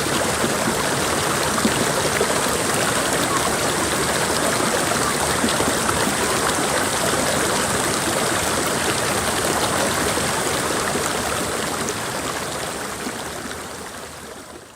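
Mountain creek flowing, a steady rush of water, fading out over the last few seconds.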